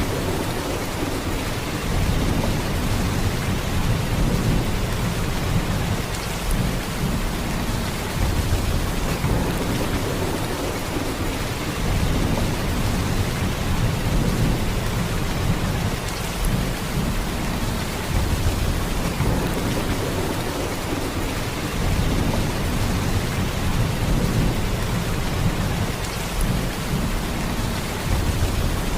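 Heavy, steady downpour of rain, an even hiss over a deep low rumble that swells and eases every few seconds.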